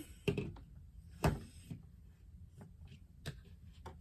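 Groceries being handled and set on shelves: a handful of short knocks and clunks, the loudest about a second in.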